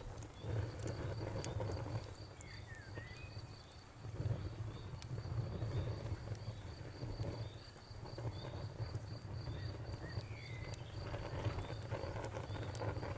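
Campfire ambience: a cricket chirping steadily in an even, high-pitched pulse, over a fluctuating low rumble with scattered sharp crackles and pops from the burning wood. A bird gives short chirps twice, a few seconds in and again near the end.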